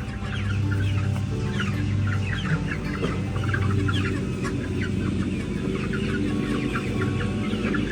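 A flock of chickens clucking, many short calls one after another, over a tractor engine running steadily.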